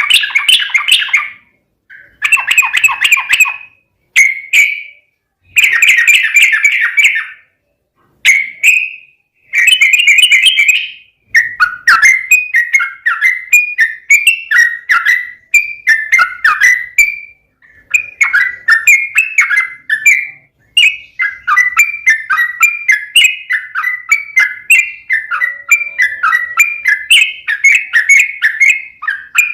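Yellow-vented bulbul singing loudly in full song: bubbling phrases of one to two seconds with short gaps, then from about eleven seconds in a fast, almost unbroken run of chattering notes.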